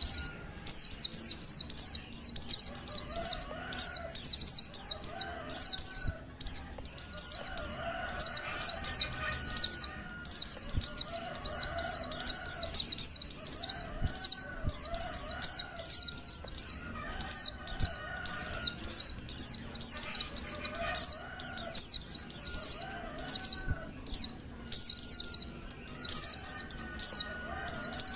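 Female white-eye (pleci) calling: rapid runs of high, thin chirps, each one falling quickly in pitch, repeated with only brief pauses between runs.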